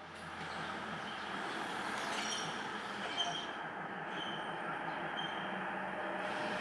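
Train running on the rails, a steady rumble with short high-pitched wheel squeals recurring every second or so.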